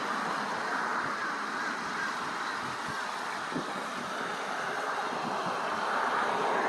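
Steady rushing splash of a landscaped fountain's falling water.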